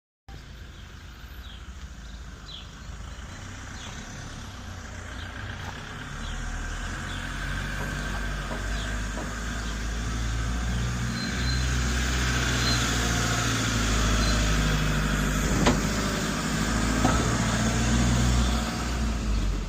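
Recovery truck's engine drawing steadily nearer, its low drone growing louder throughout.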